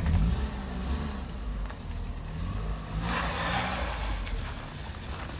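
The 1999 Opel Zafira's 1.8-litre four-cylinder petrol engine running under load as the car pulls away across ice with traction control switched on, its revs rising and falling. A rush of hiss comes in about three seconds in.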